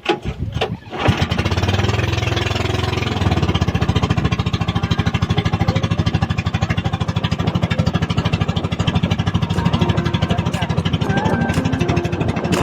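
Small single-cylinder engine of an outrigger bangka starting about a second in, then running with a fast, steady putter; its low note changes about three seconds in as it settles.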